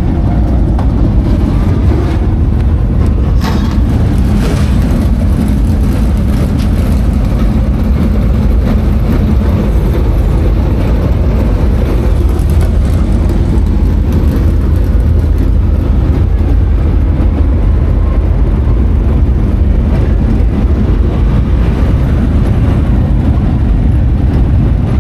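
Super late model dirt race car's V8 engine running loud and steady, with no clear revs up or down.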